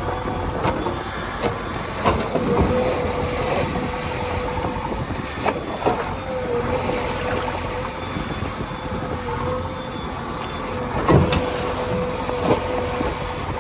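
Heavy vehicle's diesel engine running steadily with a held whine, with scattered knocks and clanks, the loudest about eleven seconds in.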